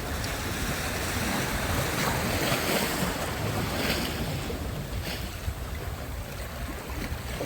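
Sea surf breaking and washing up on a beach in a continuous, swelling rush, with wind rumbling on the microphone.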